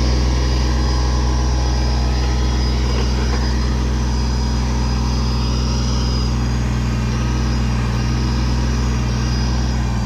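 Kubota tractor's diesel engine running loudly and steadily while the backhoe is operated.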